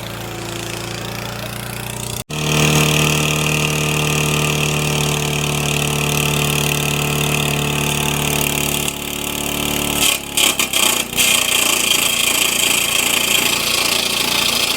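Small lawn mower engine running flat out while being abused to destruction. It cuts off abruptly about two seconds in, then comes back louder as a steady high drone. In the last few seconds the running turns ragged and uneven.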